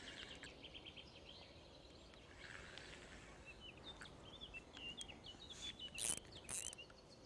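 Faint birdsong: quick chirps and trills. Two sharp clicks come about six seconds in.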